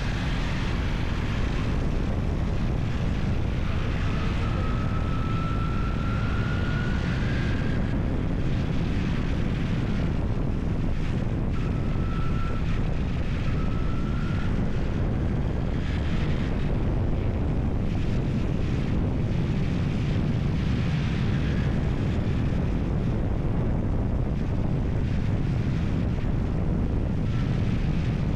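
Steady vehicle running noise with wind buffeting the microphone, and a faint high whine that comes and goes.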